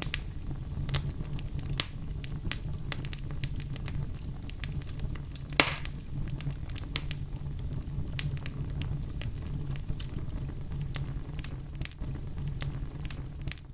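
Wood fire crackling in a fireplace: irregular sharp pops and snaps, with one louder pop about halfway through, over a low steady rumble.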